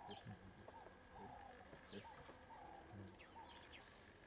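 Faint birdsong in the bush: a short mid-pitched call repeated about twice a second, with a few faint high chirps near the end.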